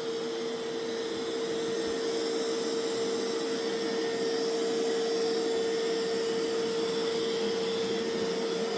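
Mova Z60 robot vacuum running its suction on carpet: a steady hum with one held mid-pitched tone over a hiss, growing slightly louder.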